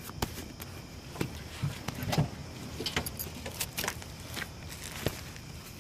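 Irregular light metallic clicks and clinks, like small metal objects being handled, about a dozen over several seconds.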